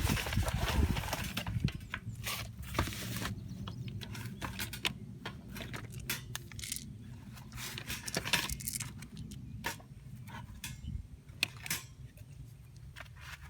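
Metal camping gear being handled: scattered light clinks and knocks, busiest in the first second or so, over a steady low outdoor rumble.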